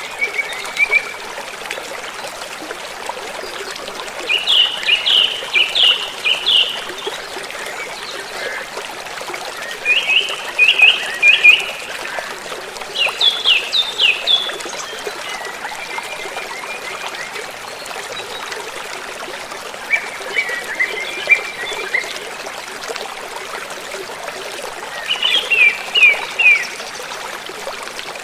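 A gentle river or stream flowing steadily. A bird breaks in every few seconds with short phrases of rapid, sharp chirping notes, about five phrases in all, and these are the loudest sounds.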